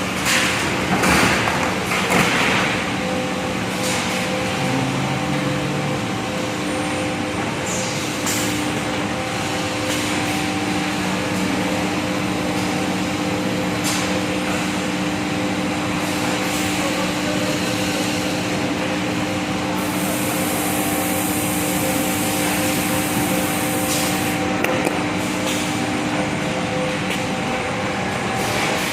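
Plastic sheet extrusion line running: a steady machine hum with several held tones over a broad rush of noise. There are a few sharp knocks in the first couple of seconds, and a higher hiss joins in for a few seconds about two-thirds of the way through.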